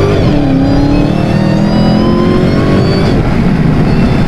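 Dodge Hellcat's supercharged 6.2-litre Hemi V8 accelerating hard through a mid-pipe-deleted exhaust with Dynomax race bullet mufflers. The pitch dips with an upshift right at the start, climbs steadily again, and the driver lifts off about three seconds in, leaving a deep exhaust rumble.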